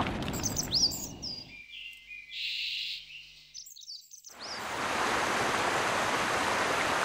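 A run of nature sounds: a steady hiss of rain-like noise that stops about one and a half seconds in, quick high bird chirps, then an even rushing noise of water or wind that rises about four seconds in and holds.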